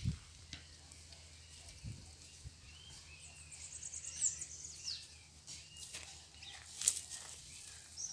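Birds chirping and calling: many short high chirps and sweeping calls, with a quick run of high notes a few seconds in, over a faint low hum and scattered clicks.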